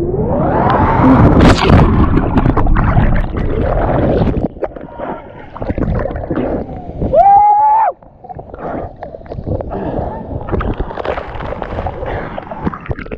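A man yelling, his voice rising, as he jumps from the top of a high waterfall, over a loud rush of falling water. He plunges into the pool, followed by gurgling, sloshing water. A short, high shout comes about seven seconds in.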